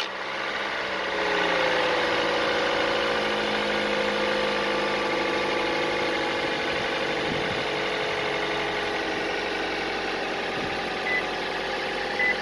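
Toyota 1NZ-FE 1.5-litre four-cylinder engine idling just after a start, its idle speed easing down over the first few seconds and then holding steady. A rattle in the seconds after starting is, on this engine, the sign of a worn timing chain tensioner.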